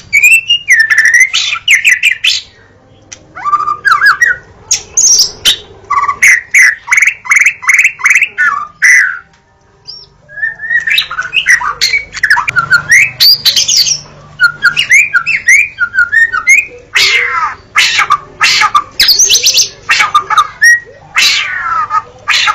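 White-rumped shama (murai batu) singing a loud, varied song: whistled and sliding notes, a run of quick repeated notes, and harsh rasping bursts near the end, with a brief pause about halfway through.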